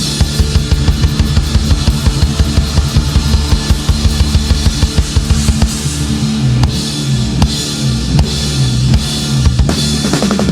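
Live rock band playing a loud instrumental passage: a fast, driving drum kit with bass drum, snare and cymbals, about four beats a second, over a bass guitar line. The band comes in abruptly at the start after a brief break.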